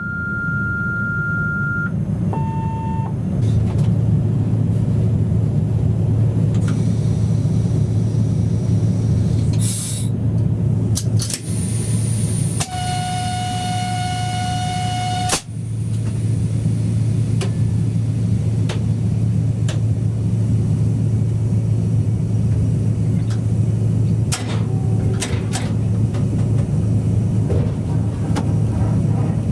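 Locomotive running, heard from inside the cab as a steady low drone. Over the drone come a short high beep near the start, a lower beep just after it, and a horn-like tone held for about three seconds before the middle.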